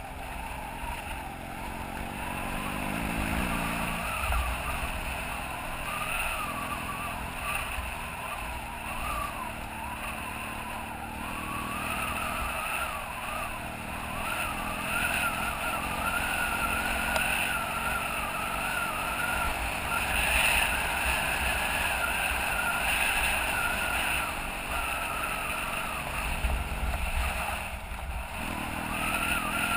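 BMW F800GS parallel-twin engine running on a gravel dirt road, its note rising and falling with the throttle, over a steady low rumble.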